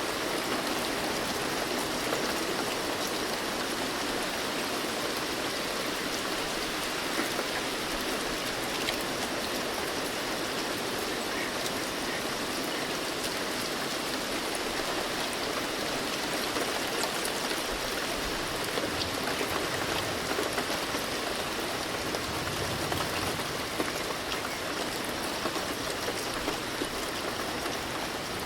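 Steady rain: a dense, even hiss of falling water, with single drops standing out here and there.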